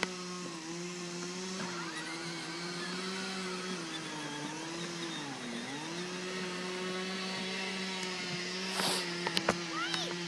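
Small ride-on vehicle motor running with a steady whine. Its pitch sags about halfway through, as if slowing under load, then climbs back. A few short clicks or knocks sound near the end.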